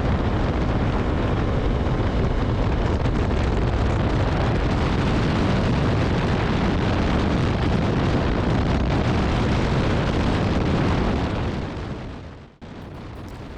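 Heavy wind rush buffeting the microphone of a Bajaj Dominar 400 motorcycle cruising at high highway speed, with engine and tyre noise underneath. It fades near the end, drops off sharply, and is followed by a quieter stretch.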